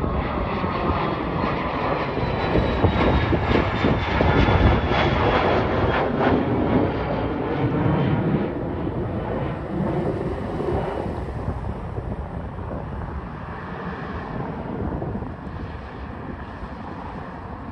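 Cessna Citation Longitude business jet taking off, its twin Honeywell HTF7700L turbofans at takeoff power. The roar is loudest about four or five seconds in, with a whine that falls in pitch as the jet passes, then fades steadily as it climbs away.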